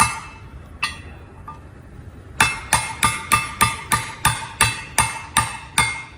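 Hammer tapping a driver to seat a fiber guide-pin bush in an axial air-disc brake caliper, each strike with a short metallic ring. Two strikes come first, then after a pause of about a second and a half a steady run of about a dozen taps, roughly three a second.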